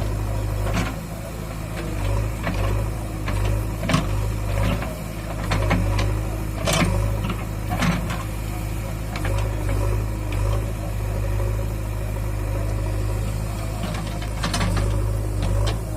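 Diesel engine of a JCB 3DX backhoe loader running steadily, with a handful of short sharp knocks or clanks over it.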